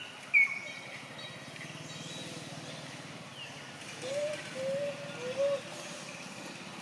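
Birds calling outdoors: one short, high chirp near the start, then a low cooing phrase of several notes from about four seconds in.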